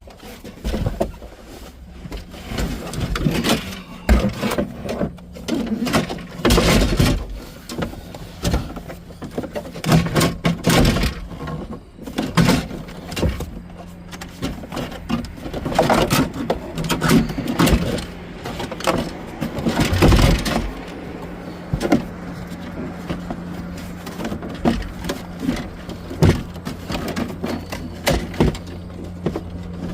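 Irregular knocks, clunks and scrapes of dashboard parts being handled and fitted into place, over a steady low hum.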